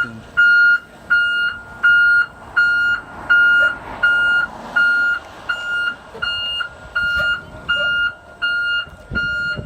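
Back-up alarm of an electric Blue Bird All American school bus beeping steadily as it reverses, a single high tone about once every 0.7 seconds.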